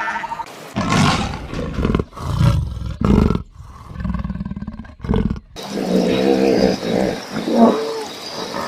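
A large animal roaring: several loud, rough roars over the first five seconds or so, then a different, more even-pitched animal call takes over.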